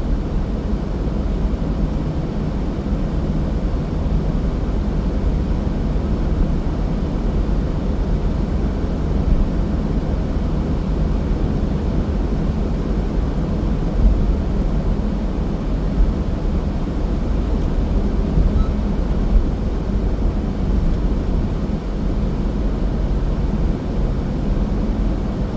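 A car driving at steady speed: a continuous low rumble of engine and tyres on the road, with a faint steady hum.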